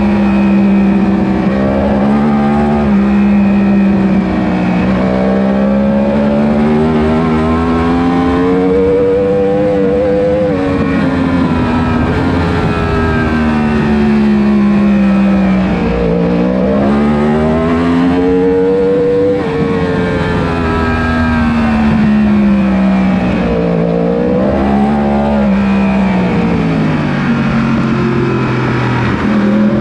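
A 1000 cc superbike engine at race pace, its pitch climbing repeatedly as it accelerates and dropping as it slows for corners.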